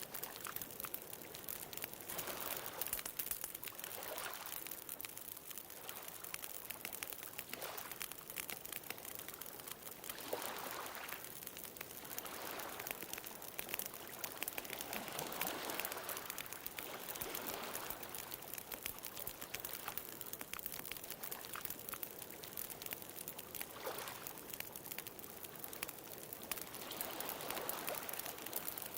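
Bonfire crackling with frequent small pops, over ocean waves that wash in and swell every few seconds.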